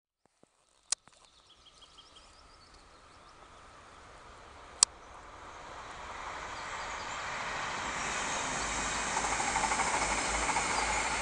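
Passenger train approaching and running across a rail bridge, its noise building steadily over several seconds to a peak near the end. Two sharp knocks, about a second in and about halfway through, and a few faint short chirps in the first couple of seconds.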